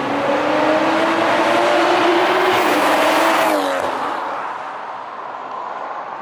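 A car engine running hard as it goes by, with a loud rushing noise over it; its pitch rises a little and then drops as it fades away about four seconds in.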